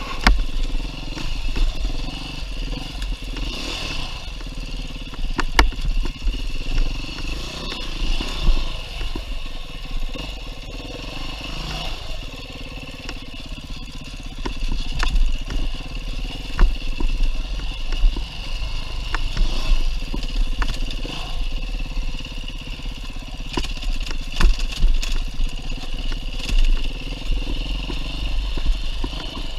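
2019 Beta 390 RR-S single-cylinder four-stroke dirt bike engine running at varying revs on tight single track, its pitch rising and falling as the throttle is worked. Scattered sharp knocks and clatter sound throughout.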